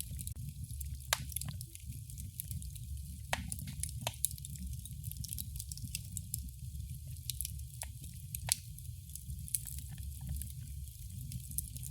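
Wood fire crackling: scattered sharp pops and snaps over a steady low rumble of the flames.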